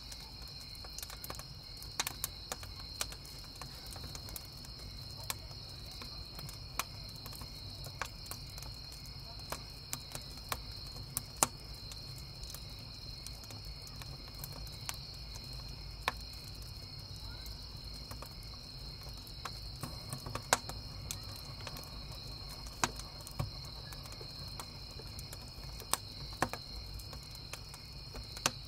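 Wood campfire crackling, with sharp pops at irregular intervals, over a steady chorus of crickets chirping.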